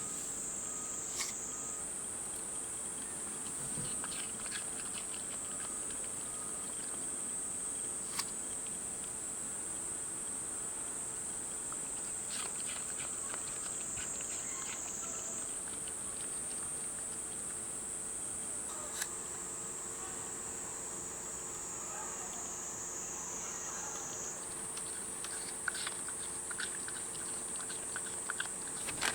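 Insects shrilling in one continuous high-pitched chorus. The pitch jumps up a few times and sinks slowly in between, with a few faint clicks.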